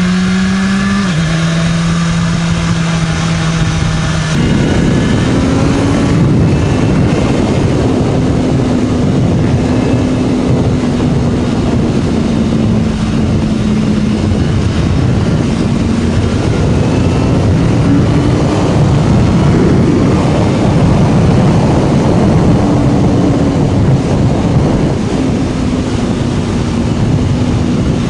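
BMW S1000RR inline-four engine on the move, heard from the rider's position: a steady engine note that rises about four seconds in as the bike picks up speed, then drifts gently up and down while cruising. Heavy wind rush on the microphone builds with the speed.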